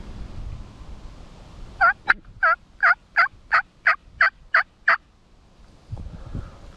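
A hunter's turkey call sounding a run of about ten loud hen yelps, roughly three a second, each note dropping in pitch. Faint low rustling follows.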